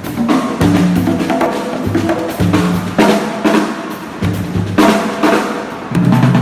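Drum kit and percussion playing a rhythmic groove together, with steady, dense strikes and low drum tones throughout.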